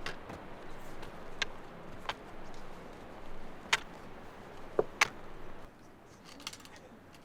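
Footsteps on a rocky mountain trail: a few sharp, irregular clicks of boots or trekking poles striking stone over a steady hiss, which fades about three quarters of the way through.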